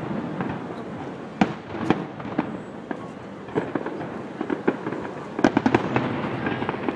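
Aerial fireworks shells bursting: an irregular run of sharp bangs and crackles, coming thickest in the second half.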